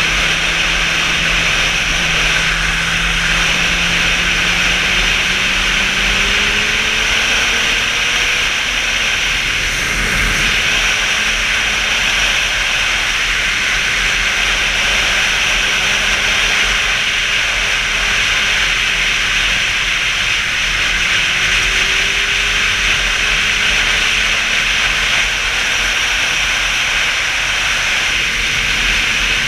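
A motorcycle engine running under way over a steady rush of wind. The engine pitch climbs slowly for the first several seconds and breaks about ten seconds in, then holds and rises gently again.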